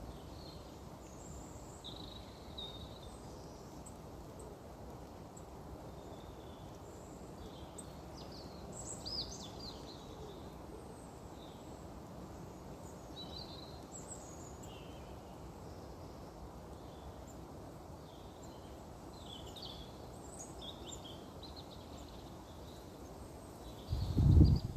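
Small birds giving short, high chirps and calls, scattered throughout, over a steady low rumble of outdoor background noise; a loud low thump comes right at the end.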